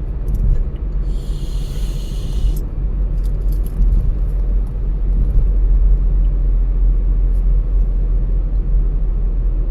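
A car driving, with a steady low rumble from engine and tyres. A brief hiss comes about a second in, and a few light clicks follow around three to four seconds in.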